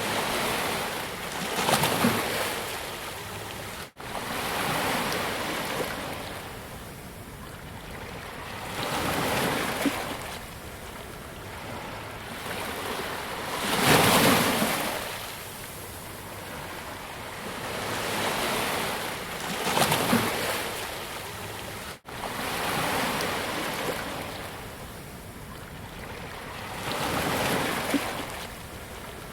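Sea waves breaking on a beach: five surges swell and wash back about every six seconds, the loudest about halfway through. The sound drops out for an instant twice.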